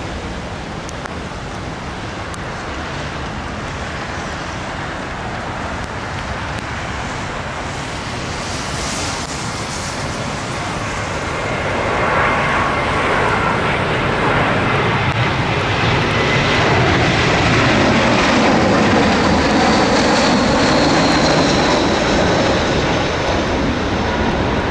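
Jet airliner passing on approach to land. Its engine noise swells over several seconds and holds loud, with a whine that falls in pitch as it goes by. Wind noise runs underneath.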